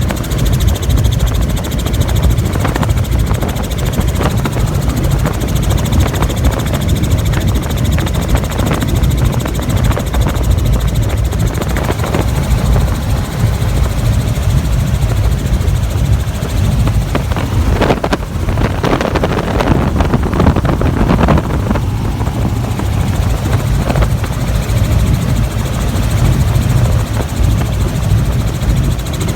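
Helicopter in flight, heard from on board: the rotor and engine make a steady, loud low rumble. Some brief louder noise streaks come about two-thirds of the way through.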